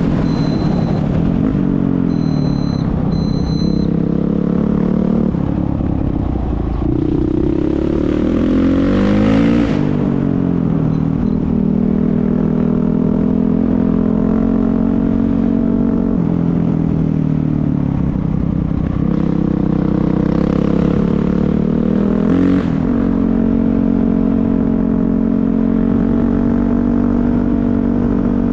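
Off-road race motorcycle engine heard from aboard the bike. It pulls steadily at speed, climbs in pitch under throttle twice and drops sharply at a gear change or lift-off each time.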